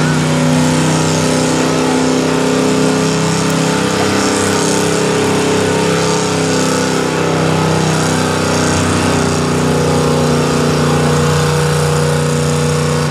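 Pulling pickup truck's engine running hard at steady high revs during a truck pull, its pitch holding nearly level with only slight wavering, then cutting off abruptly at the end.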